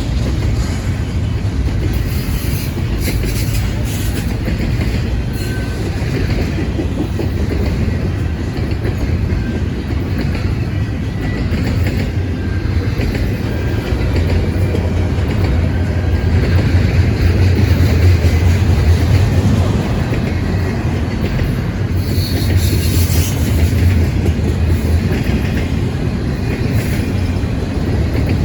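Freight train's cars rolling past: a steady rumble of steel wheels on the rails, a little louder about halfway through.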